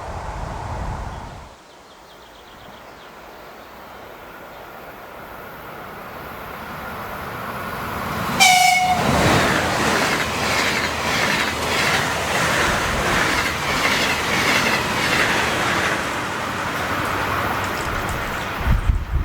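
Electric train approaching along the line with a growing rumble. It gives one short horn blast as it reaches the microphone, then passes close by for about ten seconds, its wheels clattering rhythmically over the rail joints.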